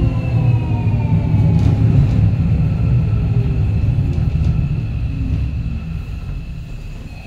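Keio Line electric commuter train heard from inside the car, slowing down: a steady low rumble of wheels on rail under a motor whine that falls slowly in pitch. The running noise fades over the last few seconds as the train loses speed.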